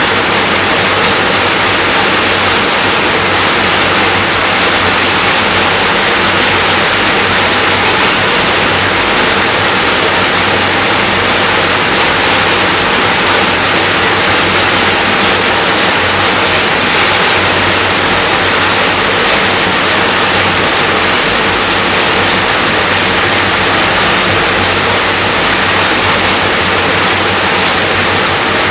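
Steady, continuous rainfall: a loud, even rush of rain with no breaks.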